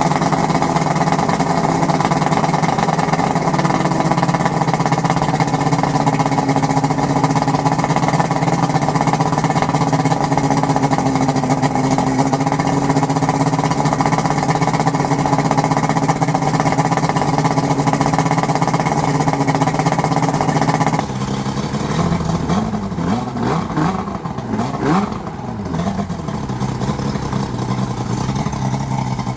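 1997 Evinrude 225 two-stroke V6 outboard running at a steady speed after a decarbonising soak with engine tuner. About two-thirds of the way in the sound changes abruptly and drops in level, and the engine speed rises and falls for a few seconds before steadying.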